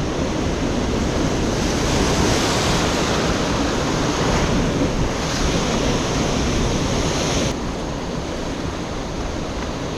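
Ocean surf washing against shore rocks, with wind buffeting the microphone. The wash swells louder a couple of seconds in and drops off suddenly near the end.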